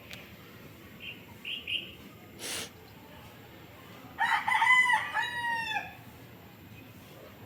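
A rooster crowing once, a cock-a-doodle-doo of about two seconds ending in a long falling note, a few seconds in. Earlier come a few short high calls and a brief hiss.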